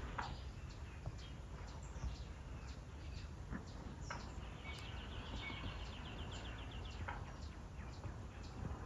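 Small songbirds chirping now and then, with one bird giving a fast, high trill for about a second and a half around the middle, over a steady low rumble.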